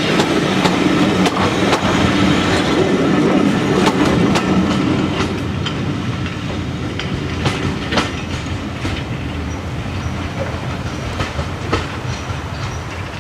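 A heritage diesel-hauled train passing: engine noise is strongest for the first few seconds, then fades. Wheels click over rail joints as the coaches roll by, and the sound slowly dies away near the end.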